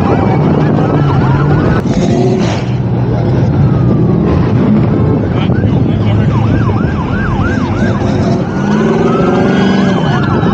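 Several car engines revving, their pitch rising and falling over and over, with a run of quick rising sweeps about two-thirds of the way in, over a steady low engine drone.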